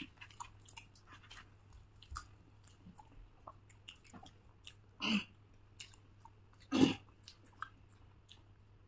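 Close-miked eating: people chewing soft food with many small wet mouth clicks and smacks. Two louder short mouth sounds come about five and seven seconds in.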